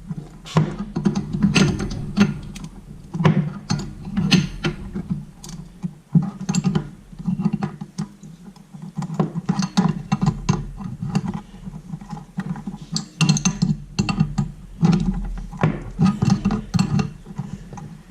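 Plumbing work on a toilet supply line: a run of irregular clicks and ratchety metallic handling sounds from tools and fittings.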